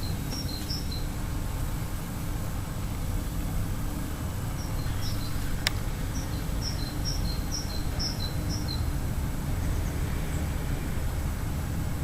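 Small birds chirping in quick runs of short high notes, one run at the start and a longer one from about four to nine seconds in, over a steady low rumble. A single sharp click about halfway through.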